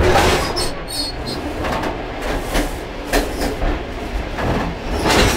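Moving passenger train heard from inside a carriage's end vestibule: a steady low rumble with irregular metallic clanks and rattles, several sharp knocks in a few seconds.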